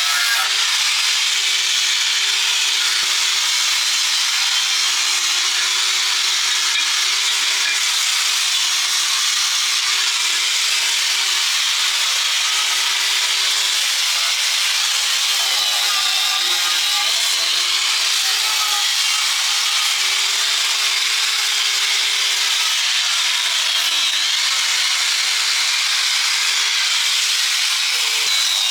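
A handheld power tool running steadily under load while abrading rusted steel, with a slightly wavering whine and no pauses.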